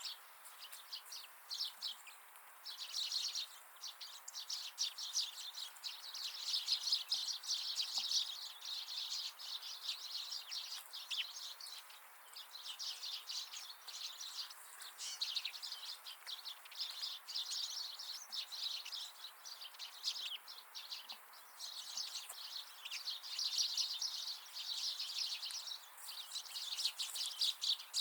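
Small wild birds chirping and twittering in dense, rapid runs of high notes that come and go in bursts of a few seconds.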